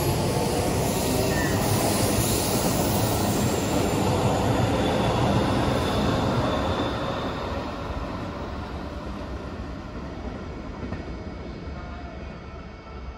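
Keikyu Main Line train running through a station at speed without stopping: a loud rush of wheels and running gear on the rails that dies away over the second half as the train recedes.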